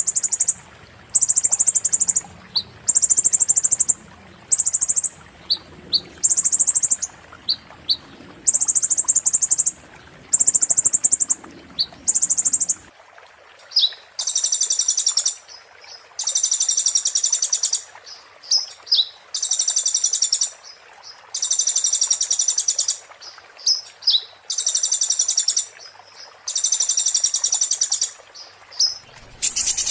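A konin (kolibri ninja) sunbird singing: high, rapid, sharp trills repeated about every second and a half, with short rising chirps between them. About halfway through, the trills turn longer and fuller.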